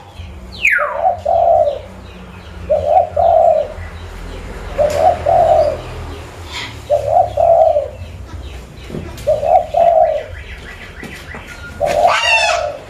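Zebra dove (perkutut) cooing: six short phrases of a few soft coos each, repeated about every two seconds. A few high falling chirps from another bird come near the start and near the end.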